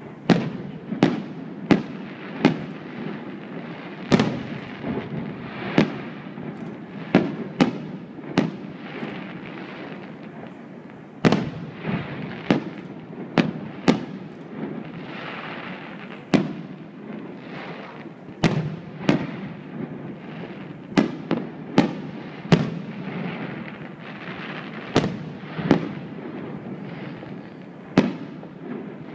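Fireworks display: rockets and aerial shells bursting in an irregular run of sharp bangs, about one a second, over a constant rumble and crackle, which thickens into a hissing crackle about halfway through.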